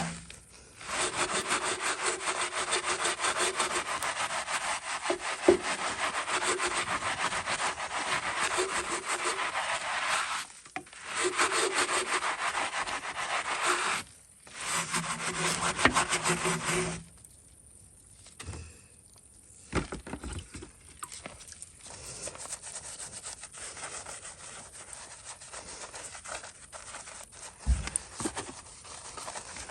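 Electric pressure washer spraying with the trigger held: a motor hum under the hiss of the water jet, cut off and restarted twice as the trigger is let go. After the third burst it stops, leaving quieter scattered knocks.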